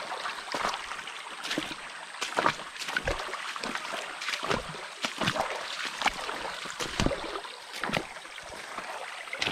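A kayak on a creek: water splashing and trickling around the hull, with irregular knocks and clicks.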